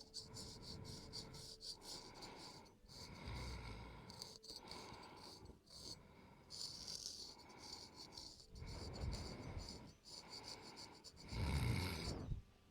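Razor blade scraping across facial skin in short, rapid strokes, a fine crackling scratch, with a louder low rustle near the end.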